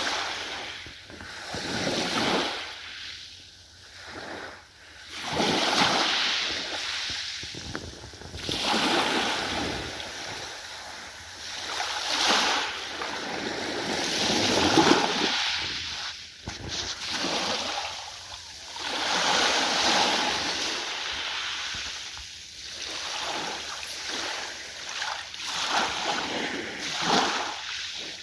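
Ocean waves breaking and washing in, the rush of water swelling and fading every few seconds.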